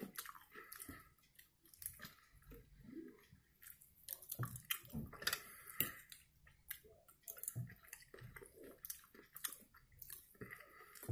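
A person chewing smoked mackerel with soft, wet mouth clicks and smacks at irregular intervals.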